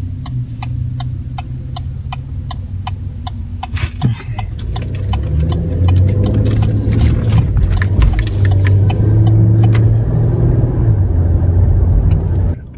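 4x4 truck's engine and road rumble heard from inside the cab, growing louder about four seconds in as the truck picks up speed. Over the first several seconds an even clicking runs at about three clicks a second, like a turn signal, with one sharp knock just before the engine comes up.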